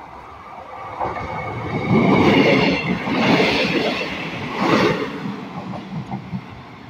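Northern diesel multiple unit train passing close by over the level crossing, with engine and wheel-on-rail noise. It builds quickly from about a second in, is loudest for a few seconds as the carriages go by, then fades as the train moves away.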